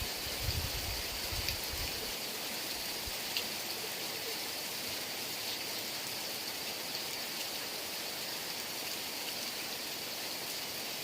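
Heavy rain falling steadily: a dense, even hiss with scattered drop ticks. A brief low rumble comes in the first two seconds.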